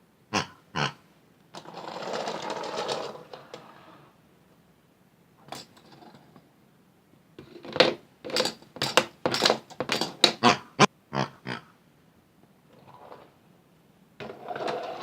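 Toy washing machine running with hard toys knocking and clattering in its drum: two knocks, a burst of whirring, then a quick run of about a dozen sharp knocks, and more whirring near the end.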